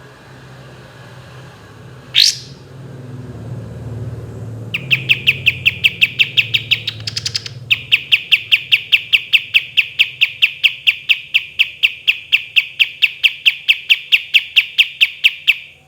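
Kapas tembak songbird singing: a single quick rising whistle, then a long, fast, rattling roll of evenly repeated sharp notes, about five a second. The roll breaks briefly midway and runs on until near the end.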